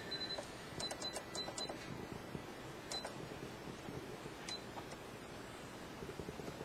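Home sewing machine at a slow sewing speed: its even stitching ticks stop just after the start, sharp mechanical clicks follow about a second in and twice more later, and near the end a steady rhythmic stitching starts up again.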